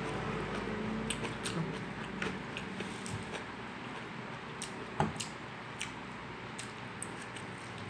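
Close-up eating sounds: chewing and small wet mouth clicks, with one louder click about five seconds in, over a low steady hum.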